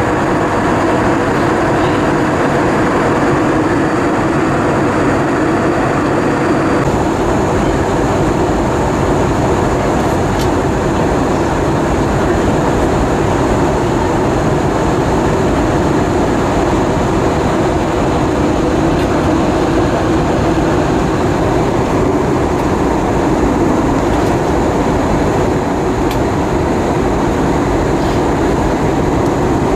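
Steady cabin noise of an Airbus A320-232, the rush of its IAE V2500 engines and airflow heard from inside the cabin, with a constant low hum. A deeper rumble joins about seven seconds in.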